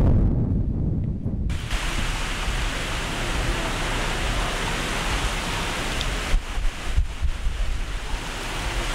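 Hurricane wind buffeting the microphone with a low rumble, then an abrupt change about a second and a half in to the steady hiss of heavy storm rain. Later, a few sharp gusts knock on the microphone over the rain.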